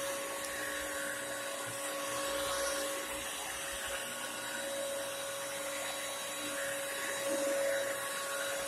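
Bissell CrossWave Premier wet-dry vacuum running steadily, its suction motor giving a constant whine over a rushing air noise.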